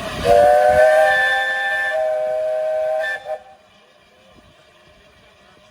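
Steam locomotive whistle blowing one long blast of about three seconds, several pitches sounding together as a chord over a hiss of steam, then cutting off suddenly.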